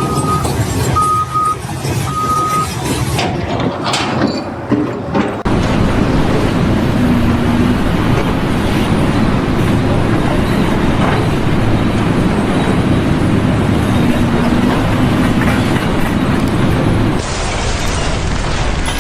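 Loud, steady heavy-vehicle or machinery noise, with three short high beeps near the start; the sound changes abruptly twice at cuts between clips.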